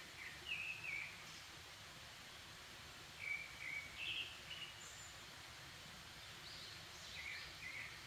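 Birds singing in short chirping phrases, in three bursts, over a faint steady background noise of the forest.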